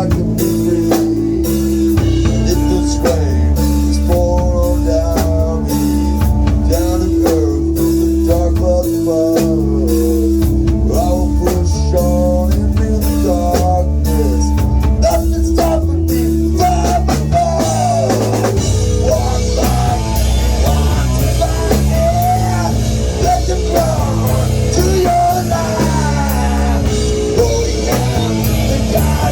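Rock music with drum kit, guitar and a melodic vocal line; the texture grows denser and brighter a little past halfway.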